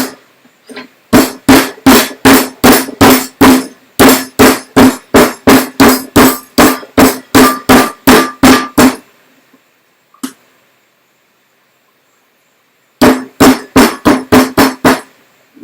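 Kitchen knocks: a long run of hard, even strikes, about three a second, each with a short ring, as spices or food are pounded or chopped. After a pause of about four seconds a shorter, quicker run of strikes comes near the end.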